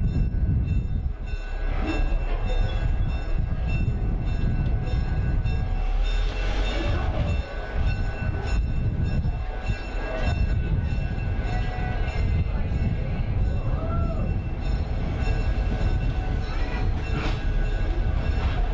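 A train running on the rails, heard from the caboose: a steady low rumble of wheels on track, with faint thin squeals and ringing tones from wheels and rail.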